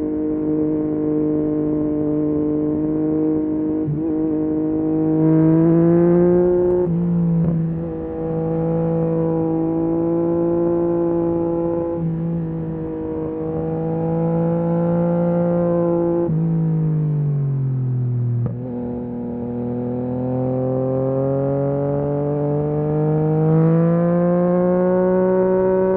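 Yamaha MT-09 SP's 890 cc inline-three engine through a full Akrapovic race exhaust, pulling and changing gear on the move. The pitch climbs, drops briefly about seven seconds in, then winds down steadily from about sixteen seconds as the bike slows, before rising again as it accelerates.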